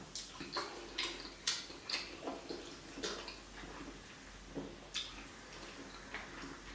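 Wet mouth sounds of someone eating tilapia pepper soup and pounded yam: irregular chewing and lip smacks with small slurps, a few sharp wet clicks at a time with short pauses between.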